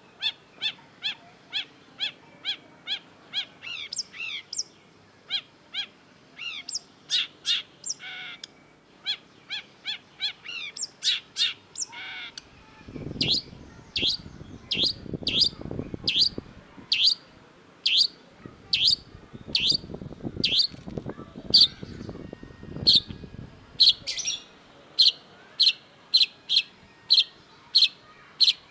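Long-tailed shrike singing: a long run of short, sharp, down-slurred notes repeated about twice a second, broken by a few harsher, chattering phrases. A low rumbling noise runs under the song through the middle.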